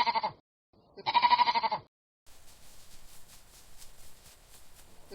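Sheep bleating twice, each a wavering call about a second long. For the last few seconds it is followed by a faint rustling noise with soft, evenly spaced ticks.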